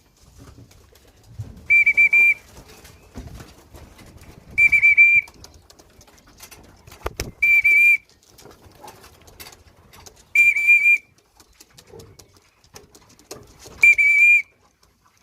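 Hand whistle blown in short trilling blasts, five times about three seconds apart: the signal calling racing pigeons in through the loft trap.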